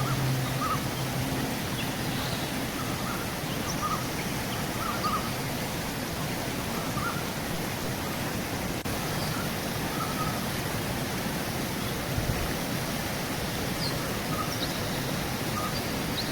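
River water running steadily, with birds giving short, scattered chirps over it.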